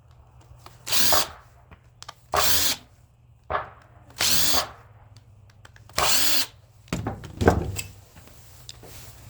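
Small cordless power screwdriver whirring in four short bursts, one every couple of seconds, driving out small square-drive screws. Each burst spins up and winds down. A few clicks and knocks near the end.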